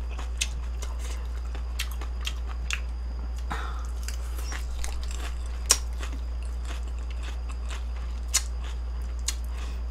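A person chewing a mouthful of food close to the microphone, with wet mouth sounds and a few sharp clicks, over a steady low hum.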